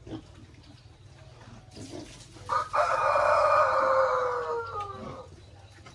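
A rooster crows once, a single long call of about two and a half seconds whose pitch sinks slightly as it fades out.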